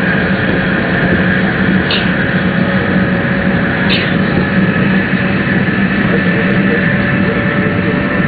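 Steady running noise inside the cabin of a Tōhoku Shinkansen Hayate train moving at speed: a constant rush with a low hum and steady motor tones. Two brief hissing swishes come about two seconds apart.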